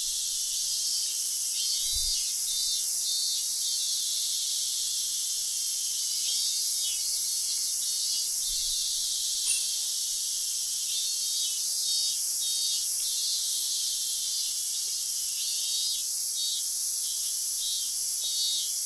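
Outdoor insect chorus: a steady, high-pitched shrill of crickets or similar insects, with pulsed chirping phrases repeating throughout.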